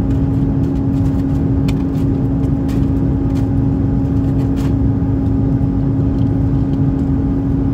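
Airbus A330-300 cabin noise in flight: a steady drone of engines and rushing air with a constant hum. A few faint clicks come near the middle.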